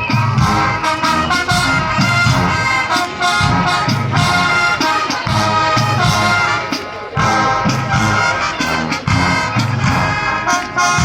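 Marching band playing: brass (trumpets and trombones) over a steady drum beat.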